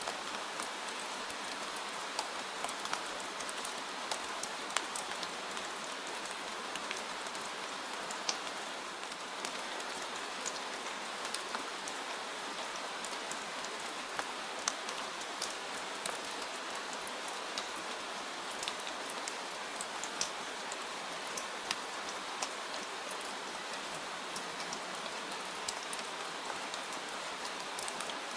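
Steady rain: a dense, even hiss with many small, sharp drop ticks scattered through it.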